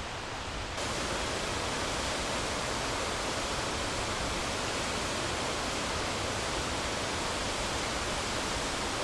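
Mountain waterfall rushing in a steady, even roar of falling water, which gets slightly fuller just under a second in.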